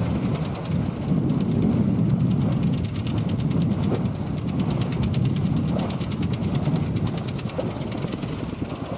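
Wind buffeting the microphone on a sailboat under way: a steady low rumble with a faint rapid ticking above it.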